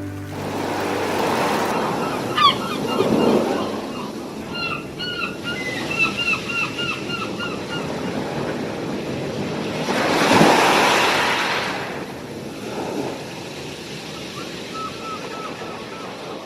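Surf washing ashore in swells, with a small bird's quick chirping calls repeated over it for a few seconds, then again briefly near the end.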